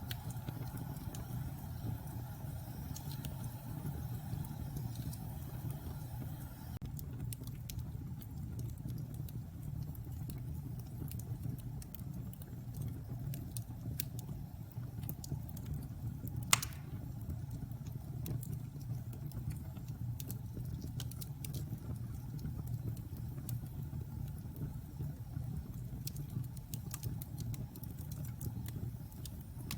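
Wood fire burning in a fireplace: a steady low rumble of flames with scattered small crackles and one sharp loud pop about halfway through.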